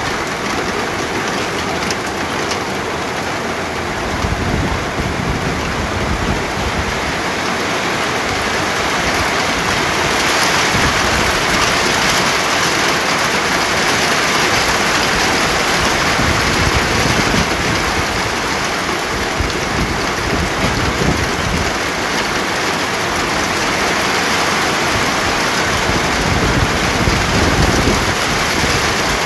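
Steady heavy rain, a dense even hiss, with low rumbling swells underneath from about four seconds in.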